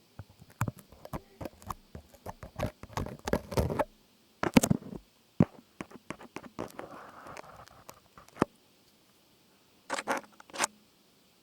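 Close-miked ASMR trigger sounds: irregular taps, clicks and scratches, with a short soft rustle in the middle.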